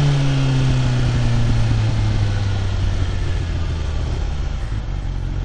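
Vehicle engine with its note falling steadily over about three seconds as the revs drop, then holding a low, steady idle.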